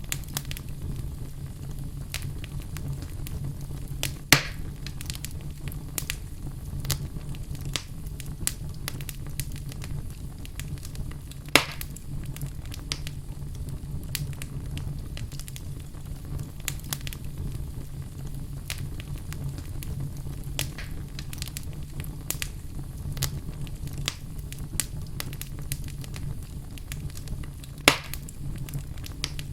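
Wood fire burning in a fireplace: a steady low rumble under frequent small crackles, with three louder pops, about four, twelve and twenty-eight seconds in.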